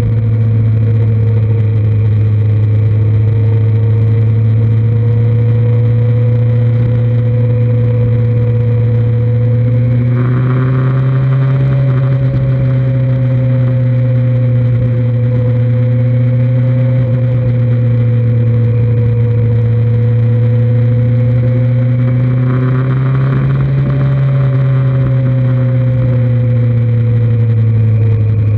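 2003 Kawasaki Z1000's inline-four engine running at a steady road cruise, heard close from a camera mounted on the bike. Its engine speed rises briefly twice, about a third of the way in and again past three-quarters of the way through.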